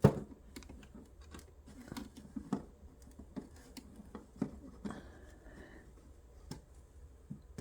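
Scattered light knocks, taps and clicks of hands handling a glued miniature dollhouse door as it is pressed into its frame, with one sharper knock at the start.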